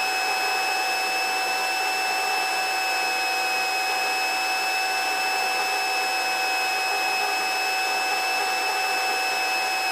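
Helicopter in flight heard through the cockpit intercom: a steady hiss with a constant high whine of several fixed tones, unchanging throughout.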